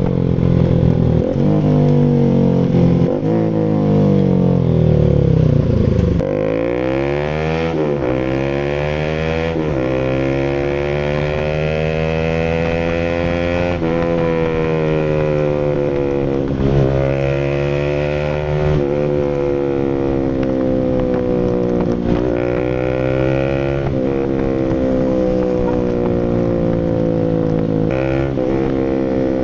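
Single-cylinder engine of a Rouser RS200 motorcycle running through an SC Project full aftermarket exhaust. The pitch falls over the first six seconds, then climbs and holds, with short dips every few seconds.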